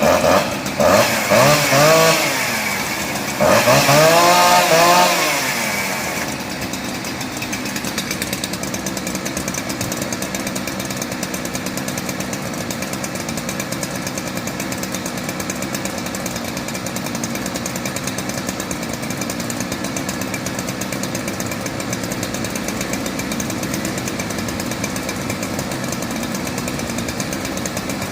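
An engine revved in several quick rising-and-falling swells, then left running at a steady, evenly pulsing idle.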